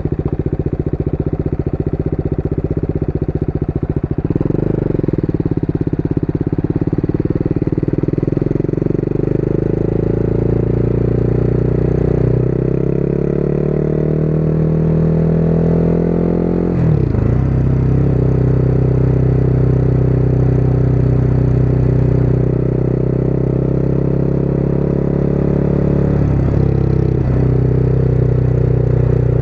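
Motorcycle engine running under way. Its pitch rises slowly, drops sharply and climbs back about halfway through, and dips briefly a couple of times near the end.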